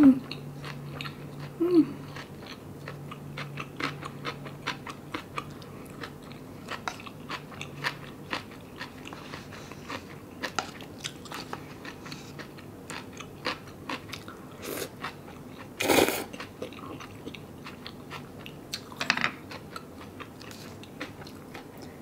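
Close-miked eating of cup noodles: chewing with many small wet mouth clicks, two short hummed sounds near the start, and one louder, noisier moment about two-thirds of the way through.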